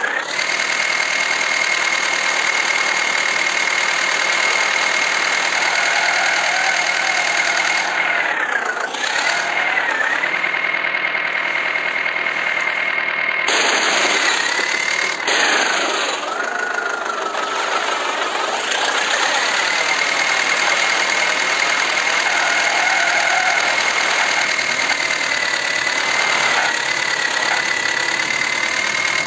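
Tractor engine running steadily, with a high whine that dips in pitch and recovers a few times. There are sudden changes in the sound about eight and thirteen seconds in.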